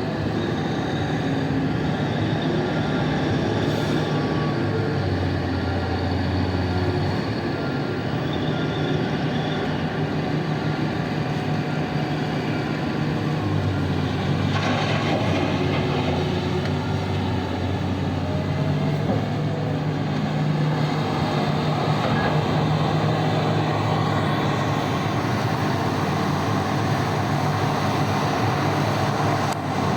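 Heavy diesel mining machinery running steadily: a large loading shovel and dump trucks at work. The engine note deepens and strengthens for a few seconds twice, as the machines come under load.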